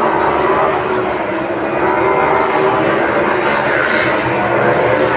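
MotoGP racing motorcycle engines running at high revs around the circuit: a loud, steady din of several engine notes overlapping.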